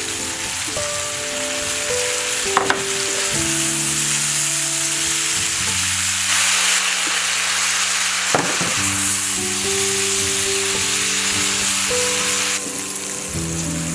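Food sizzling as it fries in a pan, the hiss growing louder about halfway through and easing near the end, with two sharp clicks. Soft background music with held notes plays along.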